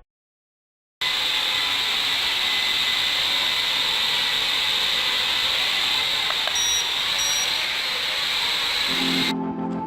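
Small electric motor and propeller of a homemade helicopter running steadily at high speed, a high-pitched hissing whine, with two short high beeps a little past the middle; it stops abruptly near the end.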